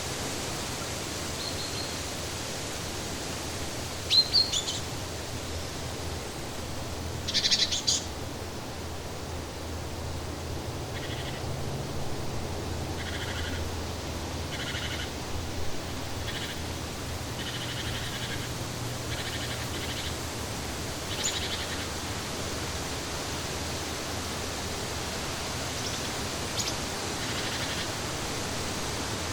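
Birds chirping in short calls over a steady, even rushing background noise. A run of repeated short, evenly spaced calls comes through the middle stretch.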